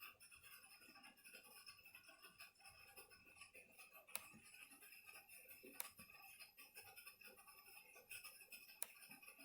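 Near silence: faint room tone with a few faint, isolated clicks.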